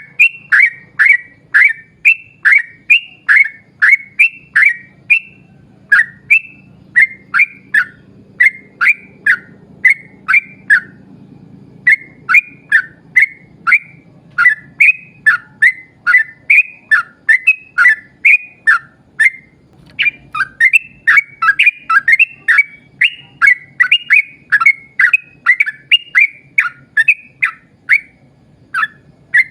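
Yellow-vented bulbul (trucukan) singing a long, rapid run of short, bubbly, down-slurred notes, about two to three a second, broken by two short pauses.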